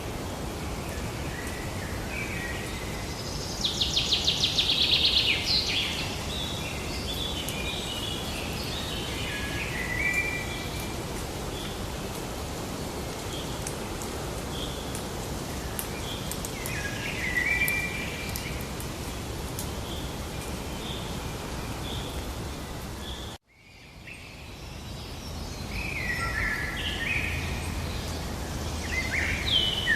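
Wild birds singing and calling over a steady background hiss of outdoor ambience, with a loud rapid trill about four seconds in and scattered chirps after. About two thirds through the sound cuts out abruptly and fades back in, an edit between recordings, after which more birdsong follows.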